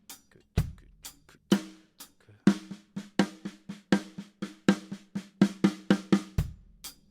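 Drum kit played: a groove of bass drum, snare and cymbal, then from about two and a half seconds in a run of quick even strokes on the snare, the right-left-left grouping of three played as a fill, closing on a bass drum and cymbal hit near the end.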